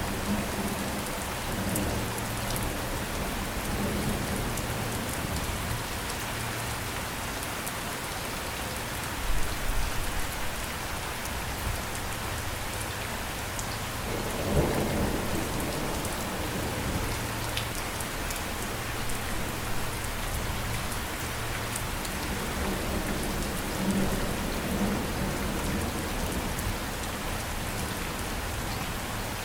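Steady heavy rain falling, with several low rumbles of thunder swelling and fading, the loudest about nine and fifteen seconds in.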